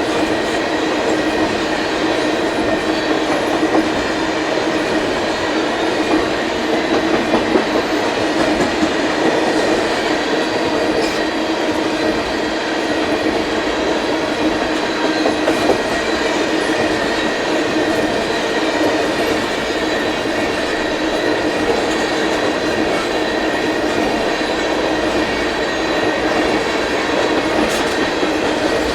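Freight cars of a Canadian Pacific manifest train rolling steadily past: continuous rumble of steel wheels on rail with clickety-clack at the joints and a faint steady metallic ring.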